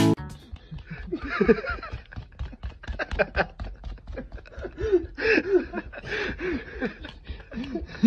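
A person snickering and chuckling under their breath in many short bursts, with a steady patter of clicks throughout.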